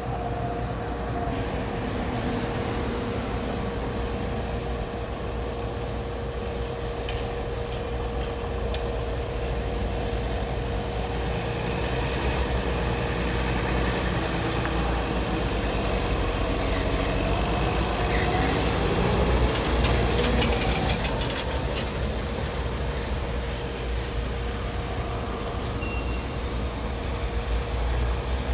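Steady low rumble of heavy vehicle engines and road traffic, with a thin steady hum throughout and faint wavering tones in the middle, getting somewhat louder around twenty seconds in.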